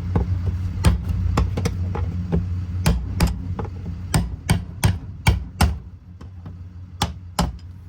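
Repeated sharp taps of a hammer driving a tool against a tight fuel pump retaining cap to turn it loose, roughly two strikes a second and fading to a few scattered taps near the end.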